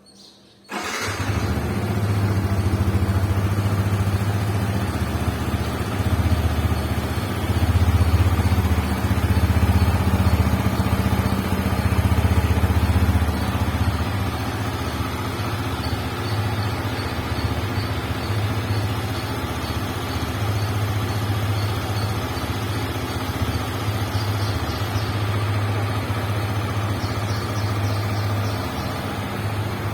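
Yamaha MT-15's single-cylinder four-stroke engine running through its exhaust. It comes in suddenly about a second in and is louder for a few seconds in the first half, then settles to a steady idle.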